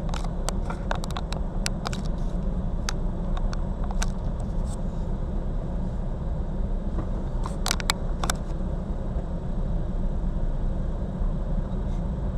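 Steady low rumble of a car driving, with scattered sharp clicks over the first few seconds and a short cluster of clicks about eight seconds in.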